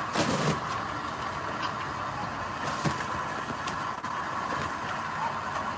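Engine of a construction machine running steadily, with two louder short knocks, one just after the start and one near the middle.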